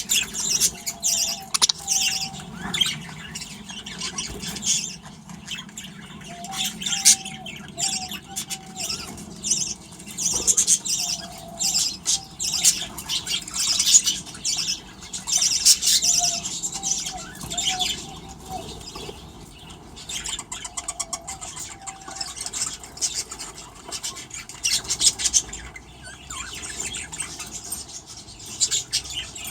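A flock of budgerigars chattering with a constant stream of high chirps and squawks. A lower warbling call repeats every few seconds.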